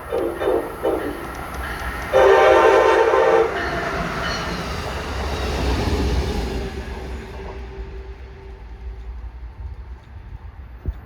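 Train horn sounding a few short toots, then one long blast of about a second and a half, followed by the train's rumble swelling as it passes and then fading.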